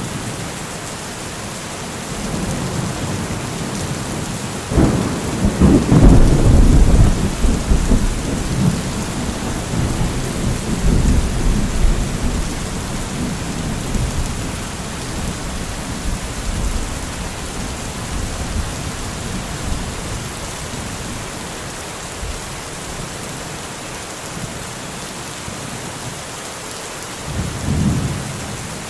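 Steady rain with a thunderclap about five seconds in that rumbles on for several seconds, and a shorter low rumble of thunder near the end.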